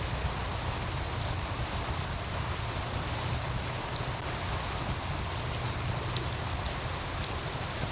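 Wood fire crackling with scattered sharp pops, the loudest a little after seven seconds in, over the steady rushing of a meltwater stream.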